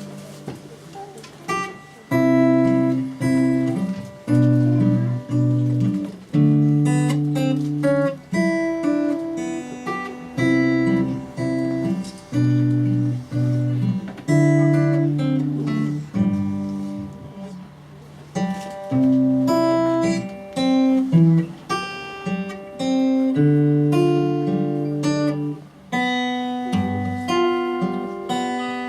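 Acoustic guitar strummed in chords, a new chord struck about every second.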